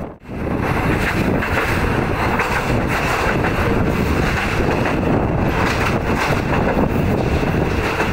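Wind rushing over the microphone held out of a moving passenger train's open window, with the train's running rumble underneath. It drops out briefly just at the start.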